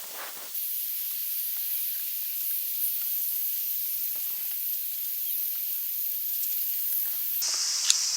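Insects shrilling in a steady high-pitched chorus. Near the end it switches abruptly to a lower-pitched drone, with a few faint rustles and clicks.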